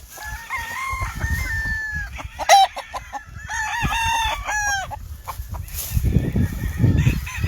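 Gamefowl roosters crowing: two long drawn-out crows with a sharp short call between them, then a low rumble near the end.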